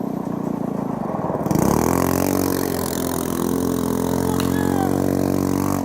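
Hammerhead 250 SS go-kart's 250 cc engine idling, then revved up about a second and a half in and held at the higher speed. Its exhaust pipe has broken off, so it runs without its proper pipe and muffler.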